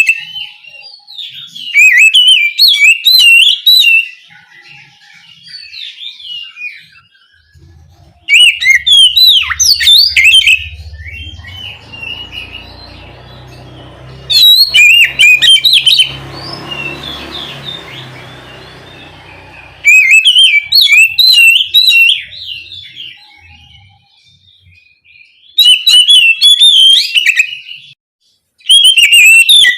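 Oriental magpie-robin singing vigorously in loud bursts of rapid, varied whistled and chattering phrases every few seconds, with quieter song between the bursts.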